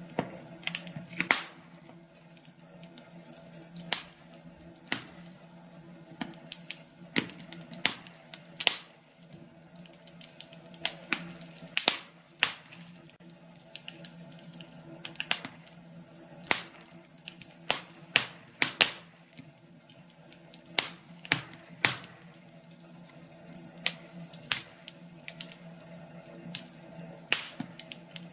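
Wood fire crackling: irregular sharp pops and snaps from burning logs, about one or two a second, over a steady low hum.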